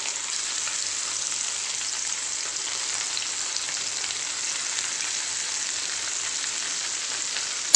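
Masala-coated chicken sausages sizzling as they shallow-fry in hot oil in a nonstick pan: a steady, even hiss.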